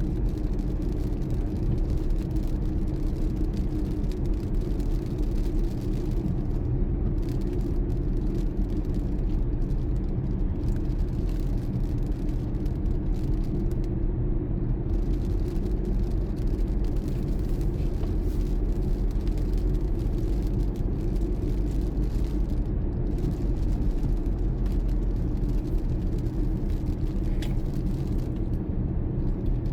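A car driving at a steady pace, its engine and tyres giving a constant low rumble.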